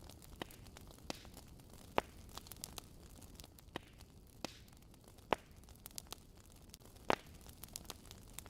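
Wood fire crackling: irregular sharp pops and snaps over a steady low hiss, with a few louder pops about two, five and seven seconds in.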